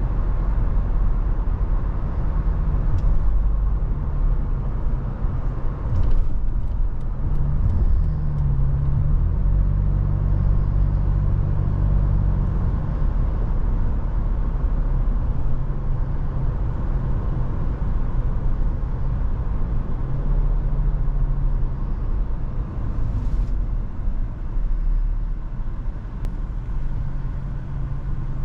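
Toyota FJ Cruiser's V6 engine and road noise while driving in heavy wind: a steady low rumble with an engine hum that rises in pitch about eight seconds in, then falls back around twelve seconds, and shifts again later. A few faint clicks come about six to eight seconds in.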